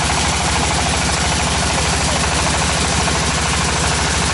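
Tractor engine driving a tractor-mounted water well drilling rig, running steadily with an even, rapid throb and a steady hiss over it.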